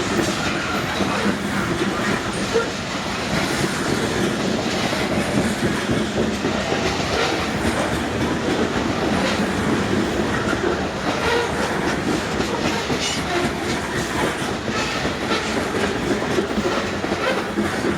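Loaded freight cars of a long unit train rolling past at steady speed: a continuous rumble of wheels on rail with a run of clicks as the wheels cross rail joints.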